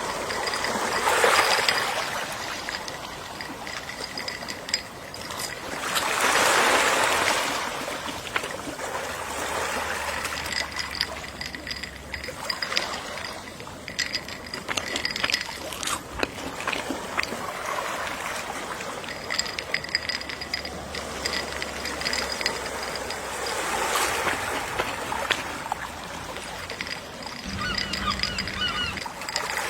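Gentle ocean waves washing ashore, swelling in louder surges about a second in, around six seconds and again near the end, over a steady wash of water.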